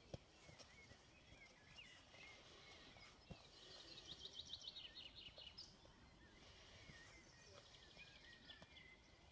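Faint songbird calls, with short chirping phrases and, about four seconds in, a quick trill of roughly eight notes a second, over quiet outdoor background; two soft thumps, one right at the start and one about three seconds in.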